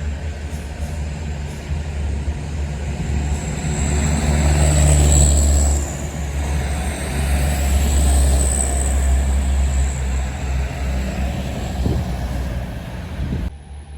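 Truck diesel engine with an open, unmuffled exhaust running loud and being revved, swelling twice, around four to six seconds in and again around eight to nine seconds in, before it cuts off suddenly near the end.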